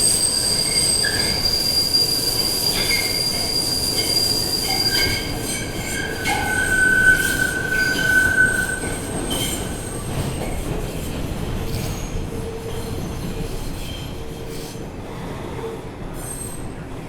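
R142 subway train heard from inside the car, its wheels squealing against the rails over the running noise. High, steady squeal tones sound through the first five seconds, a lower squeal comes in about six to nine seconds in, and the running noise slowly fades after that.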